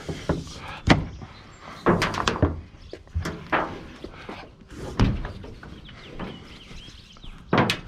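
Irregular knocks and thuds, about six over several seconds, from a load on a truck being untied and handled.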